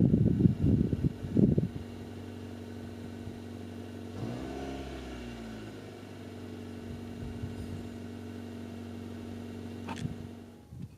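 Mitsubishi Eclipse Cross 1.5 ClearTec turbocharged four-cylinder petrol engine idling steadily after a cold start in frost. It opens with loud, irregular rumbling noise for about the first second and a half. About four seconds in, the engine pitch briefly dips and rises. A click sounds near the end, and the sound then drops away.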